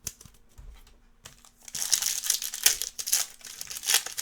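A trading card pack's foil wrapper crinkling as it is handled, with a few light clicks before it starts in earnest about two seconds in, then going on in uneven bursts.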